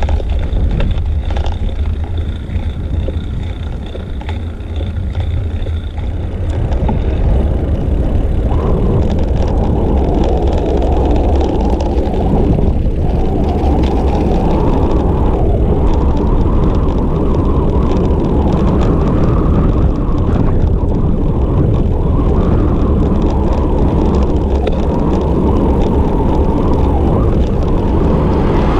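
Wind buffeting a bicycle-mounted action camera's microphone while riding, a steady rumble mixed with road and tyre noise, getting louder about seven seconds in.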